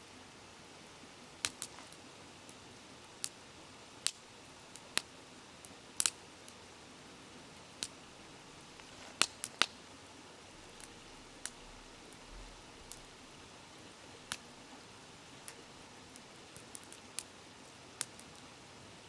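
Wood campfire crackling, with irregular sharp pops and snaps, several louder ones about nine to ten seconds in, over the steady rushing of a flowing stream.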